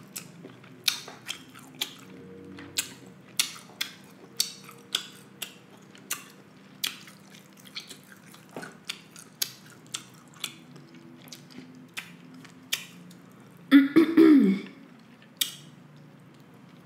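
Close-miked chewing of buttery seafood: irregular wet mouth clicks and lip smacks about once or twice a second. About fourteen seconds in, a brief loud vocal sound from the throat.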